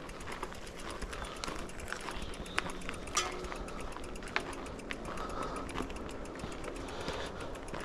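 Twigs and leaf litter crackling on a woodland path under steady movement: a string of irregular sharp clicks and snaps over a continuous rustle.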